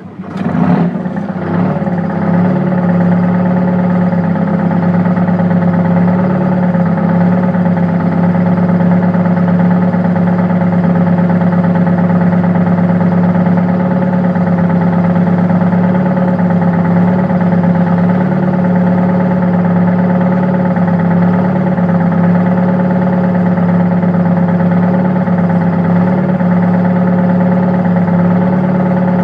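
Car engine idling with a misfire. It comes in suddenly, flares briefly in the first second or two, then settles into a steady idle.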